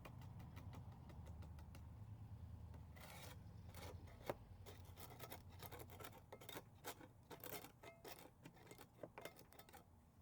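Hand paint scraper scraping flaking paint in short, irregular strokes, with clicks and scratches as the blade catches.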